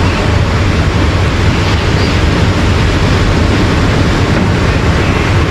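Steady wind noise on the microphone over the wash of ocean surf, loudest in the low end and even throughout.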